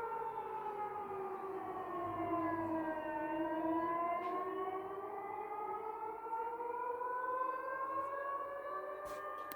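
Air-raid siren wailing, a war-time alert. Its pitch slides down for about three seconds, then climbs slowly again. A couple of sharp clicks come near the end.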